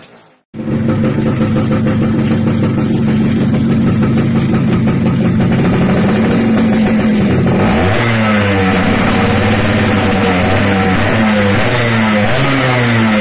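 Yamaha F1ZR two-stroke single-cylinder engine running through an aftermarket racing exhaust. After a half-second gap it holds a steady fast idle, then from about eight seconds in it is revved up and down about once a second.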